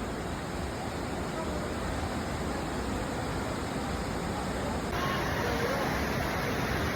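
Waterfall: a steady rush of falling water, its sound shifting slightly about five seconds in.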